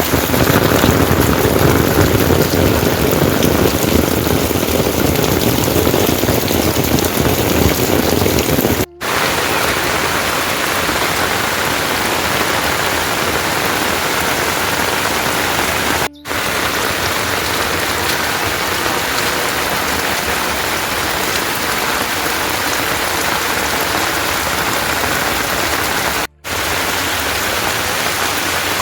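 Heavy rain falling in a steady, dense hiss. It drops out for a split second three times, and after the first break it sounds lighter, with less of the low patter.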